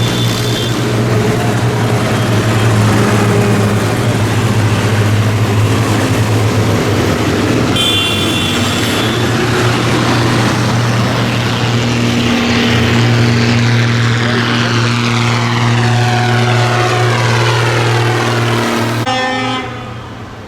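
Tractor engines running as a convoy of tractors drives past: a loud, steady low engine drone with higher tones laid over it. The noise drops away suddenly near the end.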